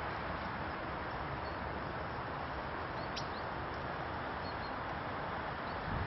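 A few faint, brief high chirps from small birds, clearest a little after halfway, over a steady background hiss.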